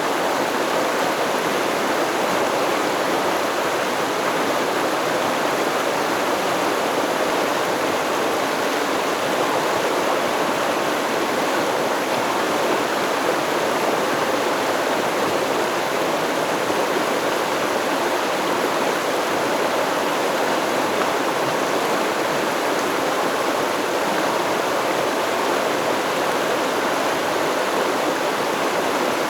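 River stream flowing steadily, an even rushing of water that doesn't change.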